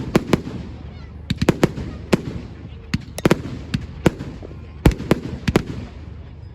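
Fireworks display: a rapid, irregular series of sharp bangs from exploding shells, some in quick clusters, with one of the loudest bangs near the end.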